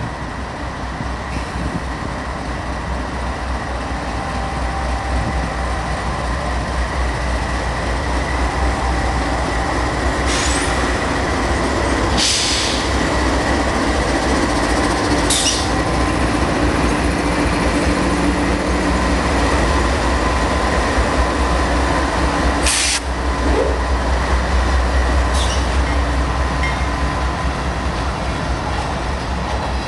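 Diesel locomotives of a CN freight train rumble slowly past, followed by freight cars rolling on the rails. The sound grows louder as the engines draw level, and a few short, sharp noises cut through the rumble.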